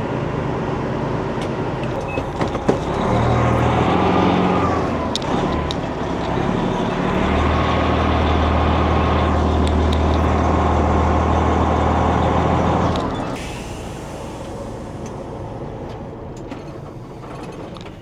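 Semi-truck diesel engine running close by, getting louder about three seconds in with a brief rise and fall in pitch, then a heavy steady drone that drops away sharply about thirteen seconds in.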